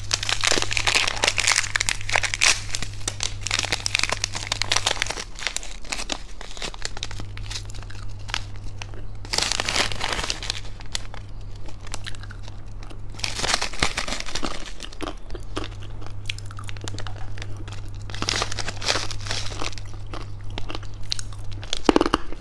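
Plastic candy wrapper crinkling and crackling as it is handled and torn open, in dense irregular bursts.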